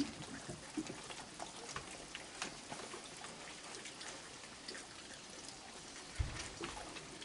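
Raccoons eating close by: a steady scatter of small clicks and smacking sounds over a faint hiss, with one low thump about six seconds in.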